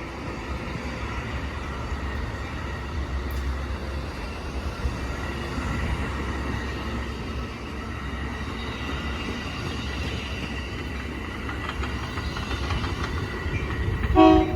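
Amtrak Superliner passenger cars rolling past at slow departing speed: a steady rumble of wheels on rail with a faint, steady high squeal above it. A brief loud sound with several tones comes just before the end.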